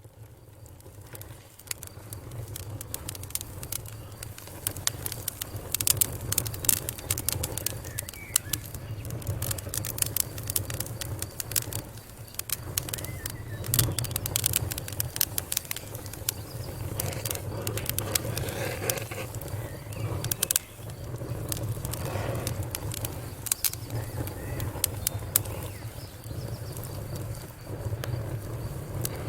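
Wood fire in a fireplace crackling, with many irregular sharp pops and snaps over a steady low rumble of the flames. The sound fades up out of silence at the start.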